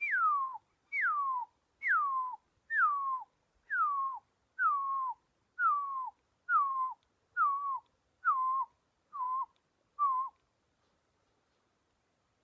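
Pearl-spotted owlet call: a series of about a dozen clear whistled notes, roughly one a second, each sliding down in pitch. The notes grow lower and shorter toward the end and stop about ten seconds in.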